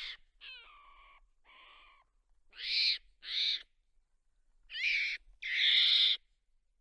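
Monkey calling: a series of short, high calls, each about half a second long, several coming in quick pairs with short gaps between, some falling in pitch.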